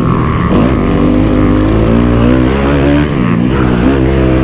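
Kawasaki KX250F's four-stroke single-cylinder engine revving under throttle while riding a motocross track. Its pitch rises and falls as the rider rolls on and off the throttle, with a dip and a climb about three seconds in.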